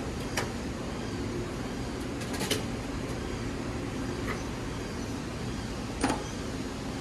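Steady workshop hum with four short, sharp clicks of tools or parts being handled during a motorcycle teardown, spaced out over several seconds; the last is the loudest.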